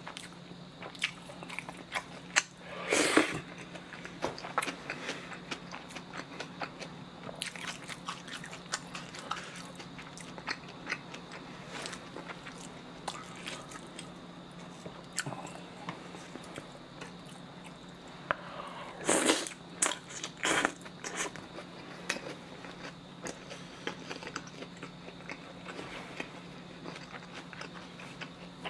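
Close-miked chewing and biting of cold spicy noodles with pork hock slices and shredded vegetables: many small wet clicks throughout, with louder spells lasting about a second, once about three seconds in and again around nineteen to twenty-one seconds in. A low steady hum lies underneath.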